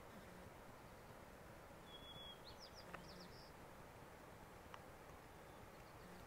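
Near silence with a faint steady hiss. About two seconds in, a bird calls briefly and faintly: a short high note followed by a few quick chirps.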